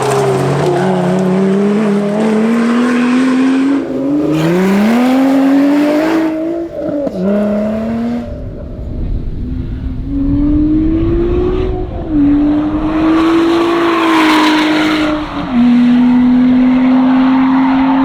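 Lotus Exige 410 Sport's supercharged V6 engine pulling hard under load, its pitch climbing and then dropping at each upshift, about four gear changes.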